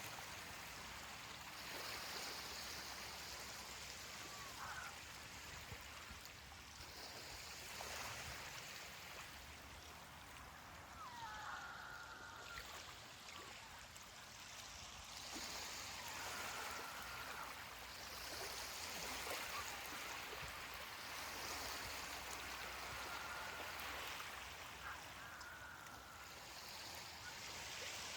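Faint ocean waves washing onto a beach, the surf noise swelling and easing every few seconds. A few faint short calls are heard now and then.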